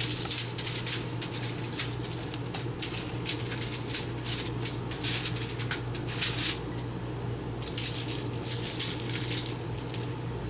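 Dry spice rub rattling in quick, irregular shakes as it is shaken from a jar onto raw chicken wings, over a steady low electrical hum, with a short pause about seven seconds in.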